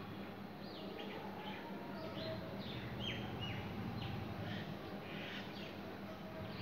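Birds chirping: many short, high chirps that fall in pitch, a few each second at an uneven pace, over a steady low hum.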